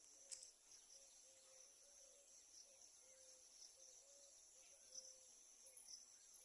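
Faint chorus of insects, a steady high-pitched trilling, with a short low call repeating about twice a second and a brief click just after the start.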